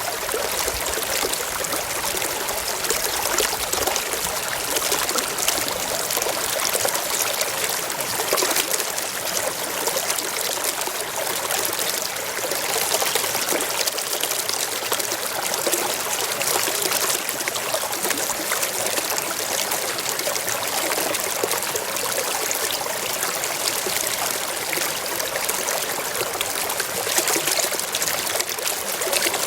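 Shallow stream flowing and trickling steadily over rocks.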